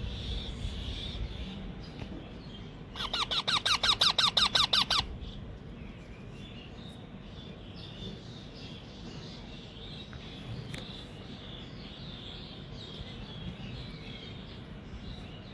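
Baby rose-ringed parakeet (ringneck) giving a rapid string of harsh squawks, about nine a second for some two seconds, starting about three seconds in: the chick's feeding call.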